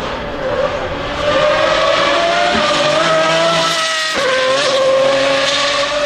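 Racing car engine running hard on a circuit, its note climbing slowly. About four seconds in it cuts abruptly to another car holding a steady high note.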